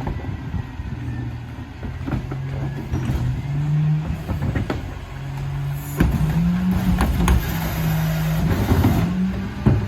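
Mack LR rear-loader garbage truck's engine running, with repeated knocks and clanks. About six seconds in the engine revs up and holds the higher speed.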